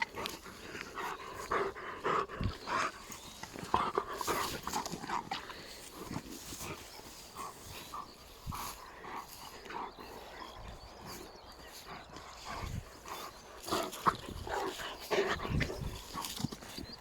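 Sounds of an East European Shepherd dog at play: a string of short, irregular noises.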